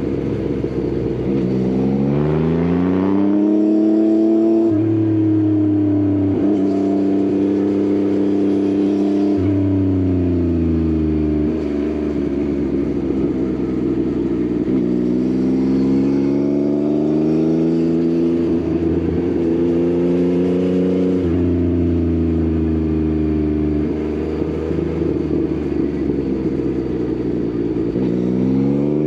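Yamaha XSR900's inline-three engine through an Akrapovič exhaust, heard from on the bike while riding. It revs up repeatedly, with quick steps in pitch at the gear changes, and eases off between pulls.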